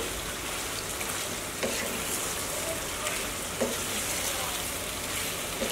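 Chicken pieces in a yogurt-spice masala sizzling in a frying pan while a wooden spatula stirs and scrapes them, with a couple of sharper knocks of the spatula against the pan. The meat is being fried down in the spices until the oil separates.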